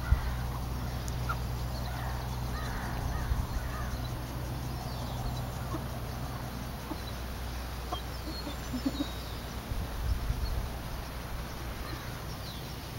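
Chickens clucking softly now and then over a steady low background rumble.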